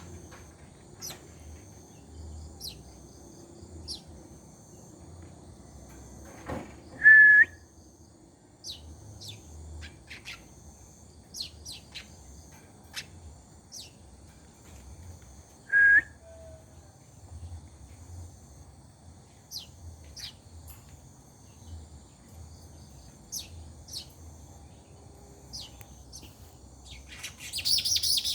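Weaver birds (manyar) calling: scattered short, high chirps, two louder single notes about seven and sixteen seconds in, and a burst of dense chattering near the end.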